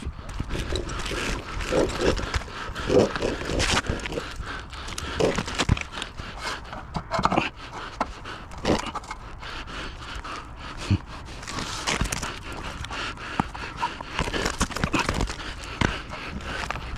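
Irregular clicks, knocks and scrapes of hands-on work with sheet-metal roofing trim, over a rustling background.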